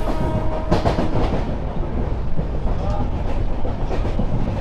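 Passenger train coach running at speed, with a steady rumble of wheels on rails. A steady whine stops under a second in, as a short clatter passes.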